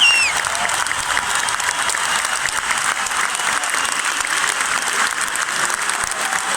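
A large football stadium crowd applauding, many hands clapping in a steady, even wash of sound. A warbling high tone cuts off just at the start.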